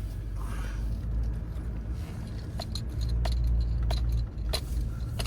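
Pickup truck running, heard from inside the cab as a steady low rumble that grows stronger about halfway through. A sharp tick repeats at an even pace, about one and a half a second, from about halfway.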